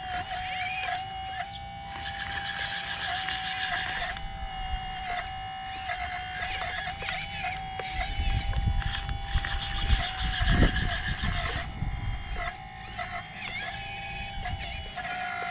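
RC excavator's hydraulic pump motor whining at a steady pitch, dipping briefly now and then as it takes load. Heavier low rumbling comes in from about 8 to 12 seconds in.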